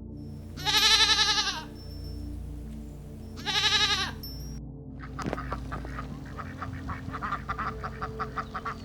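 Two long, quavering goat bleats, then from about five seconds in a duck quacking in a fast run of short calls, over steady background music.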